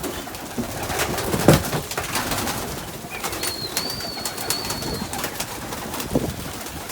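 Breeding pigeons cooing in a small loft, among a scatter of sharp clicks and taps, with a thump about a second and a half in and a thin high whistle-like tone for a couple of seconds midway.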